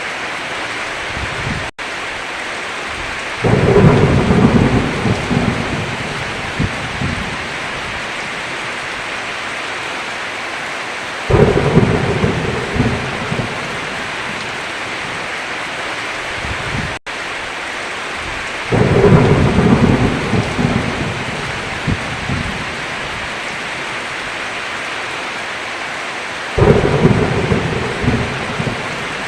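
Thunderstorm: steady heavy rain with four low rolls of thunder, each starting suddenly and dying away over a few seconds. The sound cuts out for an instant twice.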